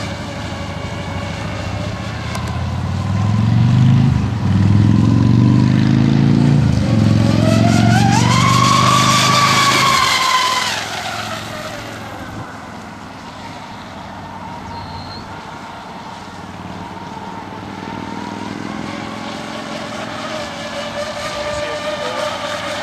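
Twin Castle 1520 brushless electric motors of an RC racing catamaran whining at high throttle as the boat makes a fast pass. The whine climbs in pitch and loudness to a peak about eight to ten seconds in, then drops in pitch and fades as the boat runs away.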